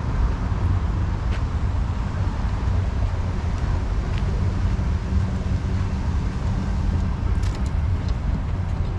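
A long train passing, heard as a steady low rumble with a faint hum.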